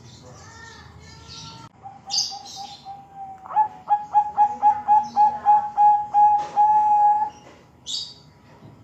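Bangkok-strain zebra dove (perkutut) cooing: a run of short, even coos about three a second, ending in a longer held note. Short high chirps from another small bird come about two seconds in and again near the end.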